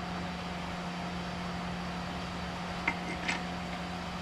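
Steady mechanical hum, with two light clicks a little under a second apart about three seconds in.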